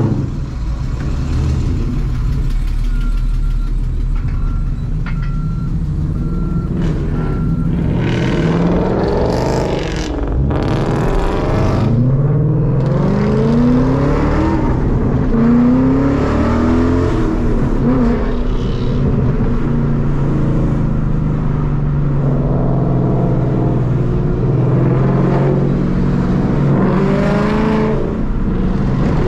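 Ford Mustang engines accelerating hard, their pitch climbing and dropping several times in quick succession about a third of the way in, then settling into a steady cruising drone with another climb near the end. A repeated electronic beep sounds over the engines in the first few seconds.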